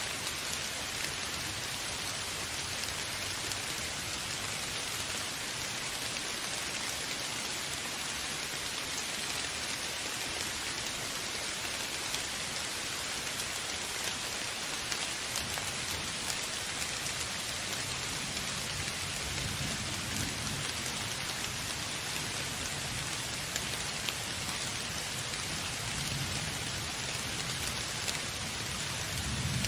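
Steady rain falling in an even hiss, with low thunder rumbling twice in the second half.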